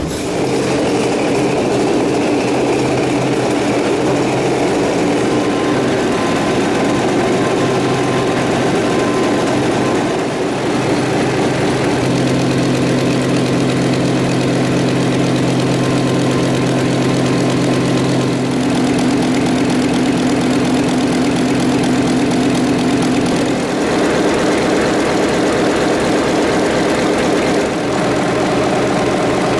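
Large old diesel engine running at a steady speed. The tone shifts abruptly twice, about 12 and 24 seconds in.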